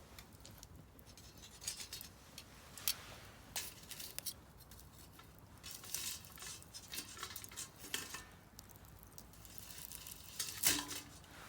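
Wood fire crackling in a Solo Stove Campfire fire pit: irregular sharp pops and snaps over a faint hiss, a few louder cracks about three seconds in, near six seconds and near the end.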